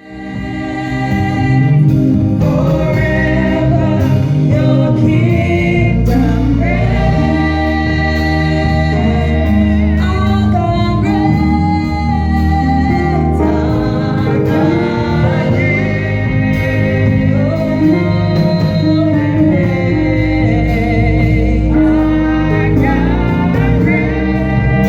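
Gospel music with singing over sustained keyboard and bass chords, fading in at the start.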